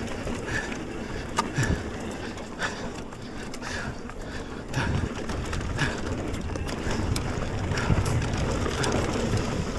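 A mountain bike rolling fast down a dirt trail: tyre rumble and wind noise, with sharp rattles and knocks from the bike over rough ground and short squeaks about once a second.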